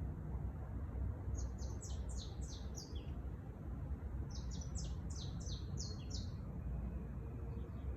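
A songbird sings two short phrases of quick, high chirping notes, one about a second in and another about four seconds in, over a steady low rumble.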